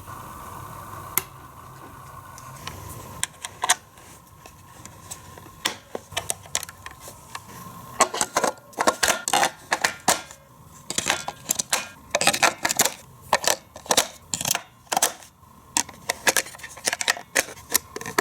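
Parts of a Hot Wheels slot car track set being handled and unpacked, giving sharp plastic clicks and knocks. The clicks are scattered at first and come thick and fast for the second half.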